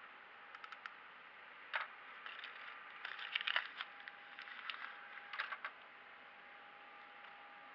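Scattered light clicks, taps and scrapes of small objects being handled, densest a little past the middle, over a steady hiss and a faint steady high hum.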